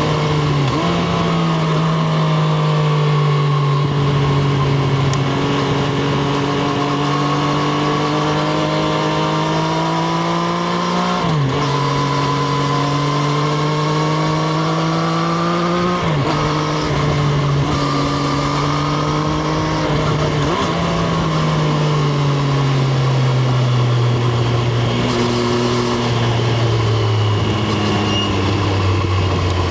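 Triumph Street Triple RS's 765 cc inline three-cylinder engine, heard from onboard, pulling under load with the revs rising slowly. The pitch drops sharply at three upshifts, about a third, half and two thirds of the way through. After the last shift the revs sink slowly as the bike slows.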